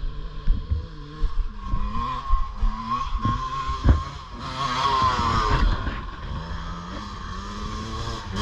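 Dirt bike engines revving up and down, pitch rising and falling with the throttle. There is a sharp thump about four seconds in.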